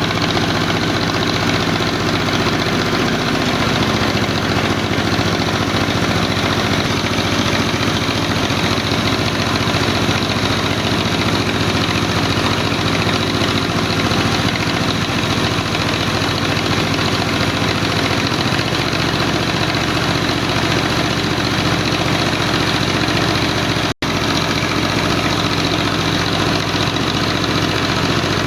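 Tractor's diesel engine running steadily, with the sound cutting out for an instant about 24 seconds in.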